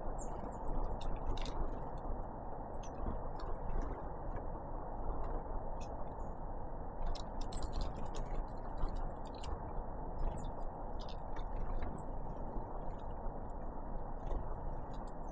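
Great tits and blue tits pecking and tapping at seeds, a run of irregular sharp clicks, some in quick bursts, over a steady low rushing background.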